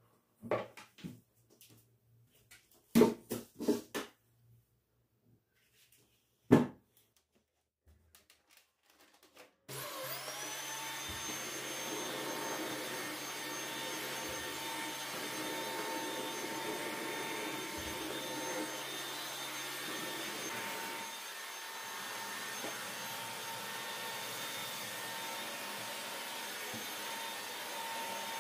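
A few knocks and clatters of things being handled. Then, about ten seconds in, a vacuum cleaner switches on, its motor whine rising briefly as it spins up and then running steadily.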